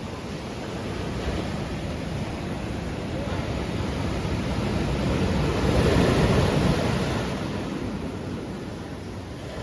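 Sea waves breaking and washing up on a beach, a continuous surf noise that swells as a wave breaks a little past halfway and then ebbs away.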